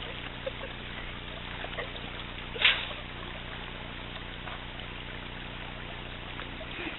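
Steady running water of a small stream, with a faint low hum beneath it. One brief sharp sound stands out about two and a half seconds in, the loudest moment.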